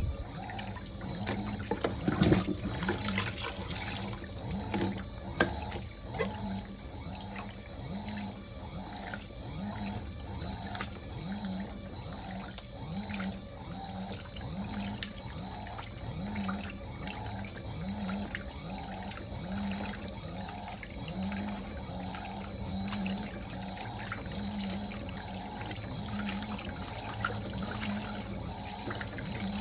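Fisher & Paykel MW059NZ washing machine washing: the motor drives the wash action back and forth about once a second, each stroke a short rising hum, over the swish and slosh of water and clothes in the tub.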